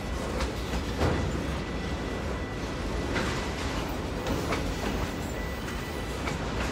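Freight train of autorack cars rolling past close by: a steady rumble of steel wheels on the rails, with a few sharp clanks from the wheels and cars spread through it.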